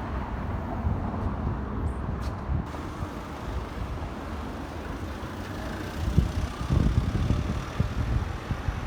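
Steady city street traffic noise, growing louder for a couple of seconds about six seconds in.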